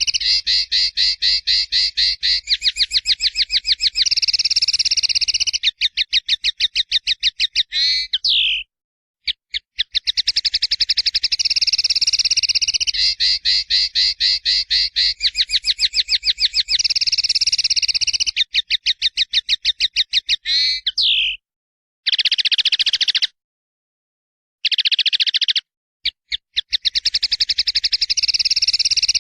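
Caged songbird singing fast, rapid-fire trills of high repeated notes, a masteran training recording of the kind used to teach canaries, linnets and shamas. The song breaks off abruptly into dead silence several times, about a third of the way in and again past the two-thirds mark, as edited cuts.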